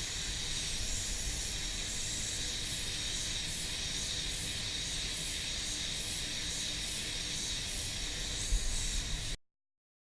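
Steady hiss of compressed air, as from a paint spray gun, over a low rumble; it cuts off suddenly near the end.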